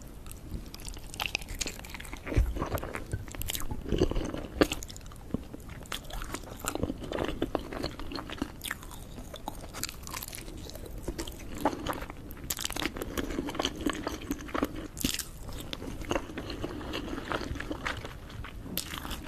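Close-miked biting and chewing of a large hard-boiled egg, a run of many short clicks and crackles at uneven intervals.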